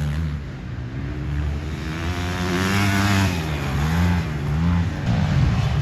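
Motocross dirt bike engine on the track, its revs rising and falling several times as the rider works the throttle.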